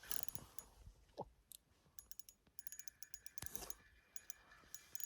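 Ice fishing reel's loosened drag clicking irregularly as a hooked panfish pulls line, with a faint steady whine in the second half.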